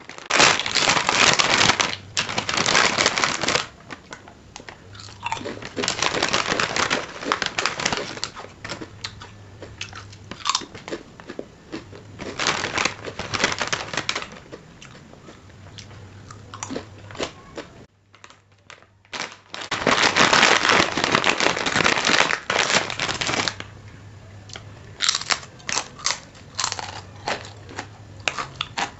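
Close-up crunching and crinkling as crunchy snacks are eaten and their plastic packaging is handled, in loud bursts of a few seconds with crisp clicks and crackles in between.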